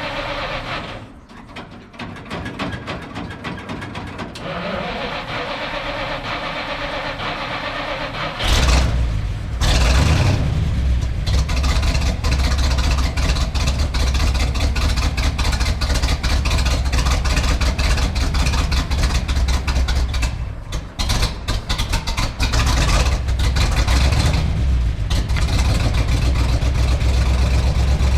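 Engine of a Ford C-850 cab-over truck running just after an oil change, with a fast even firing pulse. About eight seconds in it becomes much louder and deeper and stays that way, with a brief dip a little past twenty seconds.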